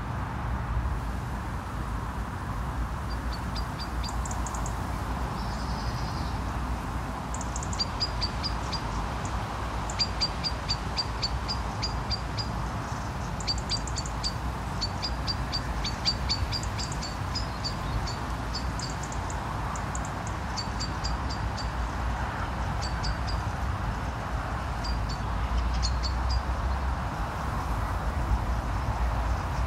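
A bird giving trains of short, high chirps, several a second, coming and going in bursts, over a steady low rumble.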